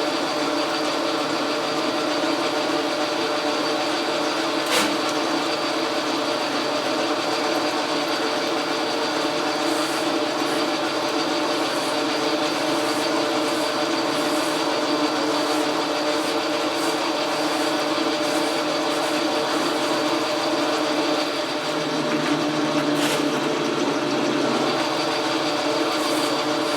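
Logan metal lathe running under power and taking a cut: a steady mechanical drone with a gear whine, one sharp click about five seconds in, and a shift in the running note a few seconds before the end.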